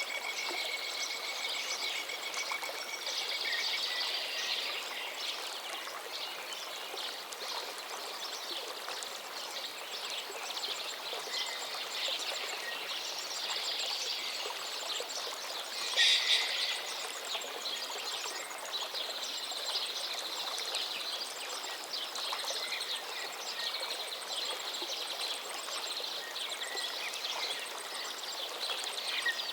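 River water flowing steadily, with small birds chirping and trilling over it; one bird call stands out louder about halfway through.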